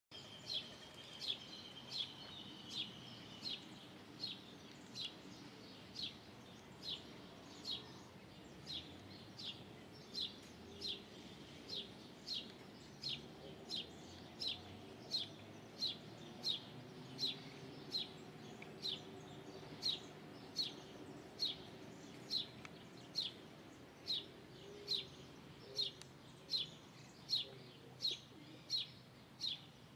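A small bird calling with a single short, high chirp that dips slightly in pitch, repeated at a steady pace of about three every two seconds.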